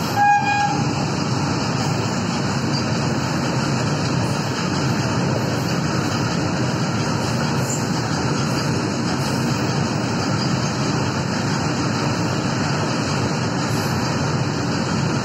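Steady rumble and rattle of train wheels running on rails, heard from the window of a moving passenger coach as a long rake of loaded open goods wagons passes on the next track. A short horn toot sounds about a third of a second in.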